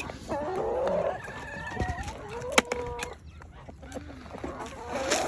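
Domestic fowl calling: a run of clucks and short rising calls, with a louder call starting near the end.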